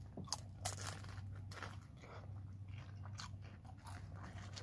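Crunching and chewing on a crispy fried lumpiang shanghai (Filipino spring roll): irregular crisp crackles of the fried wrapper, over a low steady hum.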